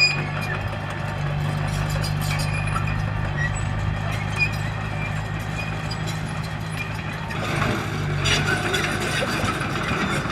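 Heavy diesel earthmoving machine such as a bulldozer running steadily at work, with a constant low engine drone and scattered metallic knocks. From about seven and a half seconds in, it grows louder with added clanking and scraping.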